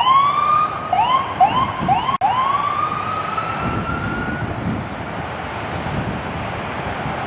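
Emergency vehicle siren giving short rising whoops: one, then three quick ones about two seconds in, then a longer rising wail that fades out. Steady traffic noise follows.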